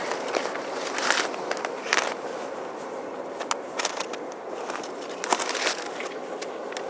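Train rolling past on the track: a steady rolling rumble of steel wheels on rail, with irregular sharp clicks throughout.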